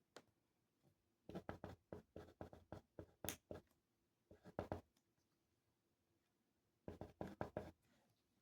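Faint writing on paper: quick clusters of short scratching strokes, about a second or two each, with pauses between them.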